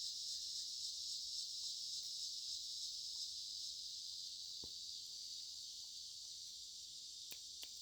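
Chorus of cicadas: a steady, high-pitched continuous buzz that fades slightly toward the end.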